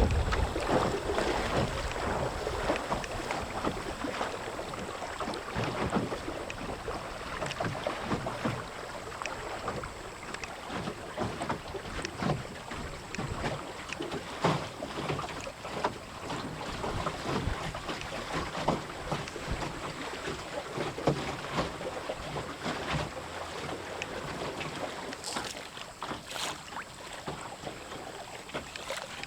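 Water rushing and slapping against the hull of a small wooden Melonseed sailing skiff under way in strong wind, with frequent short splashes and wind buffeting the microphone.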